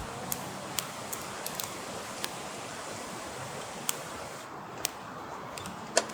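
Steady rushing wind noise with irregular sharp clicks scattered through it, the strongest one near the end.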